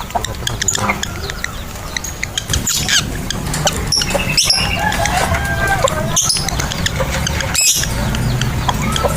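Lovebirds calling: sharp, high squawks every second or two with quick chirps and short warbling chatter in between, over a steady low rumble.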